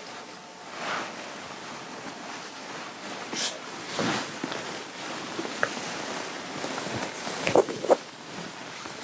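Clothing fabric rustling and rubbing as a sweater and blouse are handled and adjusted, in short swishes with a couple of sharper knocks near the end.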